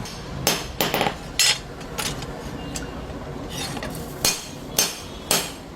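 Sharp metallic taps and clinks of tools on a khukuri blade being worked, about eight irregularly spaced strikes, each with a short ring.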